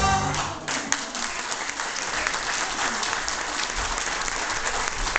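A band's tune ends in the first second, then an audience applauds steadily.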